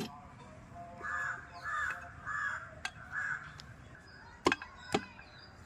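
Several sharp metal knocks from work on a scooter engine's crankcase as the crankshaft is fitted, the loudest two near the end. Behind them a bird, likely a crow, gives four harsh caws in a row.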